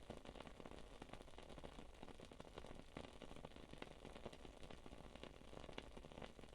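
Wood-wick candle crackling faintly: irregular small pops and clicks over a soft hiss.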